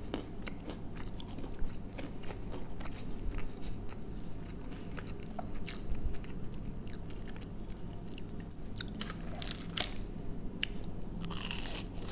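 Close-up chewing and crunching of deep-fried food, with crisp, crackly clicks throughout. A louder, crunchier bite into a battered onion ring comes near the end.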